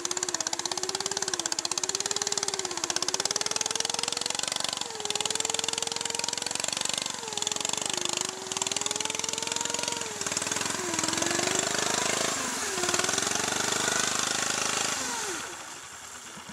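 Riding lawn tractor engine running hard through mud, its pitch rising and falling as it revs and bogs under load. Near the end the pitch drops away and the engine winds down.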